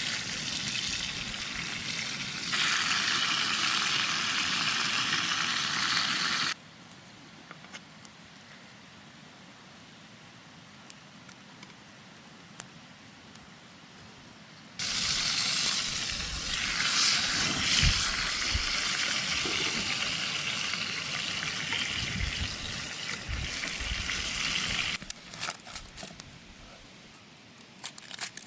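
Beef steak sizzling in a frying pan over a campfire, in two stretches that start and stop abruptly. Between them and near the end there is a much quieter stretch with faint scattered ticks.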